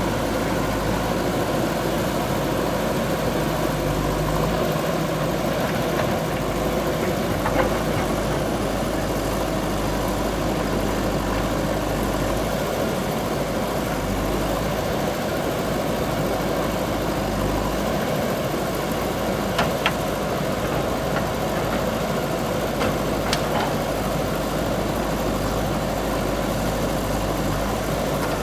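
Diesel engine of a JCB 3DX backhoe loader running steadily while it works, with a few sharp knocks about a third and two-thirds of the way through.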